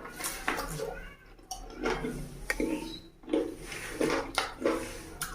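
A person eating noisily close to the microphone: irregular chewing and lip-smacking sounds, with now and then a light clink of a dish.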